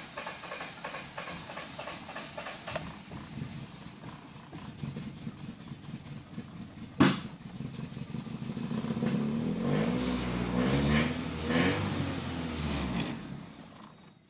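Honda B18B four-cylinder engine running roughly on a cold start, with one sharp loud pop about seven seconds in, then revved up and down for a few seconds before the sound falls away near the end. It is not firing on all four cylinders and is loading up, which the owner puts down to a bad MAP sensor.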